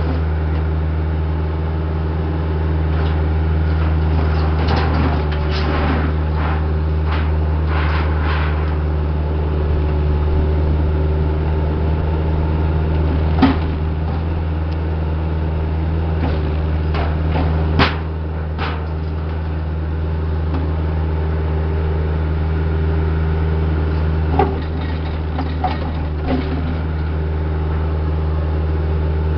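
Heavy-equipment diesel engine running steadily at an even speed, with a few sharp metallic clanks from the machine's work.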